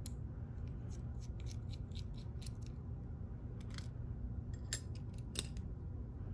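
Small metallic clicks from the parts of an ASSA Twin Exclusive lock cylinder being handled as it is taken apart. A quick run of light ticks, about five a second, fills the first two and a half seconds, followed by a few sharper single clicks.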